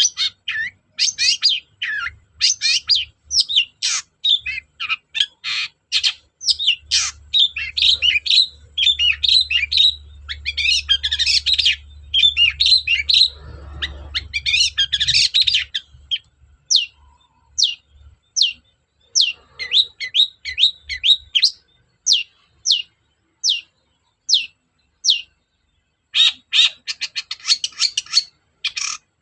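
Long-tailed shrike (cendet) singing a fast, varied song of chirps and harsh notes, then a run of single sharp downward notes a bit under a second apart, then a quick dense chatter near the end.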